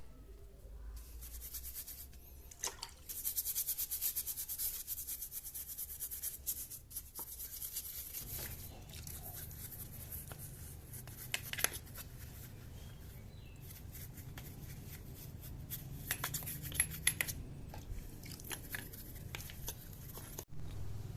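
Brushing and rubbing on small brake parts, with sharp metallic clicks and ticks as the parts are handled: rear brake caliper and pads being cleaned by hand. A spell of fast scrubbing strokes comes a few seconds in.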